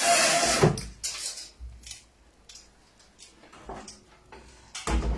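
A door being shut and locked: a scraping swing at the start, scattered clicks and knocks of the latch, and another scrape near the end.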